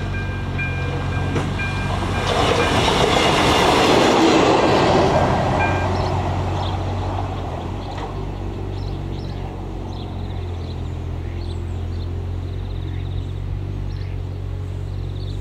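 ČD class 814 RegioNova diesel railcar passing over the level crossing, swelling to its loudest about four to five seconds in and then fading away. The crossing's electronic warning bell rings steadily under it and stops about six seconds in.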